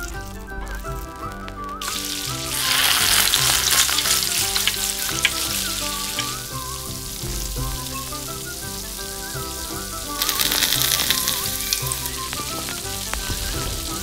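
Food sizzling as it fries in hot oil. The sizzle comes in loudly about two seconds in, eases a few seconds later, and swells again around ten seconds in, over background music.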